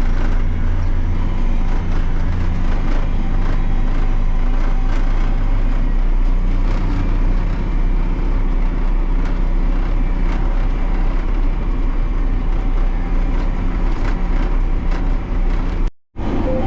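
Fertilizer floater truck's engine running steadily under way, with a constant low hum and frequent small rattles and clicks. The sound cuts out for a moment just before the end.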